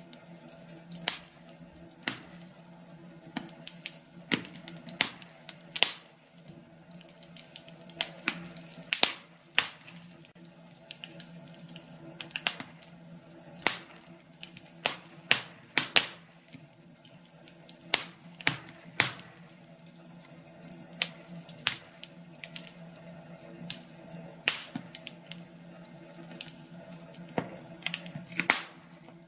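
Wood fire crackling, with irregular sharp pops and snaps at uneven gaps over a faint steady low hum.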